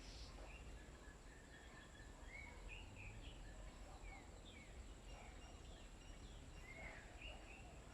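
Small birds chirping faintly: many short, scattered chirps and quick up-and-down notes, over a low steady background rumble.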